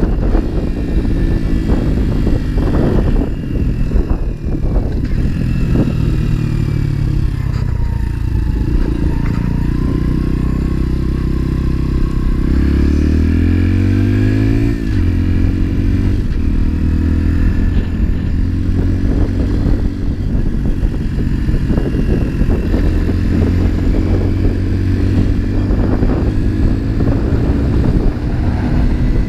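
Motorcycle engine running while riding. About halfway through it rises in pitch as the bike accelerates, then drops suddenly at a gear change and settles to a steady pitch.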